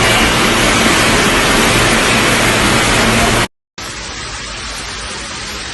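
Loud steady rushing of floodwater pouring in a flooded subway station. It cuts off suddenly about three and a half seconds in, and after a brief silence a quieter, steady rushing follows.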